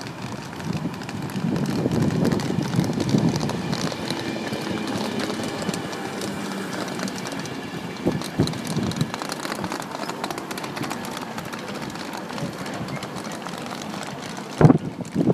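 Electric express train of Mark 4 coaches running along the platform, a steady rumble of wheels on rails that swells about two seconds in. A few knocks come around the middle, and two or three loud sharp knocks come near the end.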